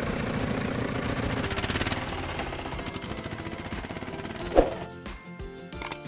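An engine running with a fast rattle, fading away over about four seconds. A single sharp knock comes about four and a half seconds in, followed by a few scattered clicks.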